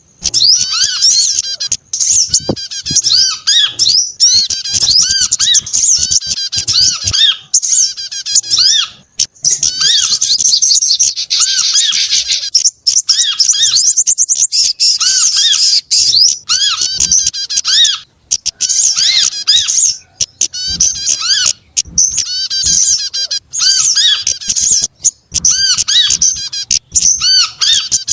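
Bird-lure recording layering the calls of several small songbirds, sold as sogon, kemade, korlap and prenjak (prinia). It plays as dense, rapid high chirping and twittering over a repeated lower arched note, in runs broken by brief gaps.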